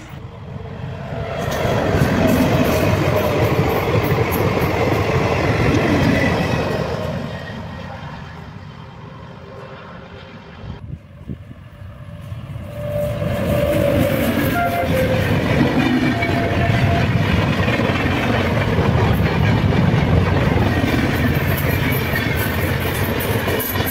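Two Indian express trains, hauled by electric locomotives, pass at speed one after the other with a steady rumble and wheel clatter. The sound swells, fades, and breaks off about 11 seconds in, then swells again for the second train, with short horn tones during the second pass.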